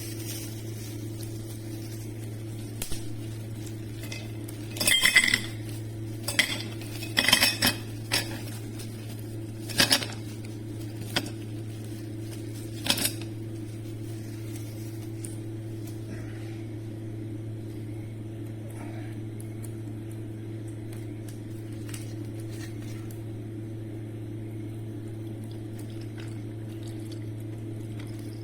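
Dishes and cutlery clinking as tableware is handled: a run of sharp clinks and clatters in the first half, then only faint ticks. A steady low hum lies under it throughout.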